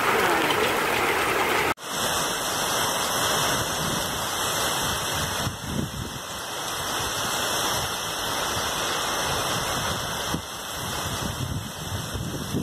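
Heavy rain pouring down in a steady hiss, with gusting wind during a storm. About two seconds in, the sound cuts abruptly from a louder shower of hailstones striking ground and buildings.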